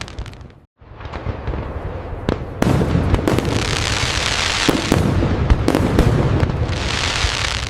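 Fireworks display: dense crackling and popping shot through with sharp bangs and low booms. The sound cuts out briefly just under a second in, then builds back up.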